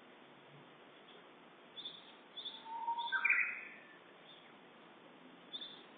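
Japanese bush warbler singing its 'hoo-hokekyo' song once, about three seconds in: a long low whistle followed by a quick run of higher notes. Short high chirps come a few times before it and again near the end, over a steady background hiss.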